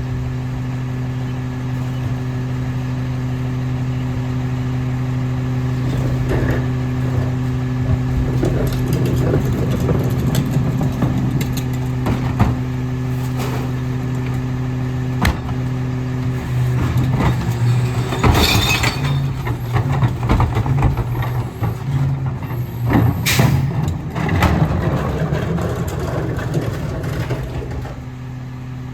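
Autocar ACX garbage truck's diesel engine running steadily, with irregular clattering and banging as recyclables are handled at the Pac-Tech rear-loader hopper. Two sharp air hisses from the truck's air brakes come about two-thirds of the way through, a few seconds apart.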